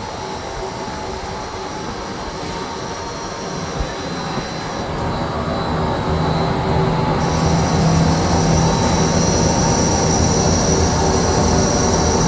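CNC flat-bed turning lathe running: a steady machine hum with constant high-pitched whines, growing louder about six seconds in.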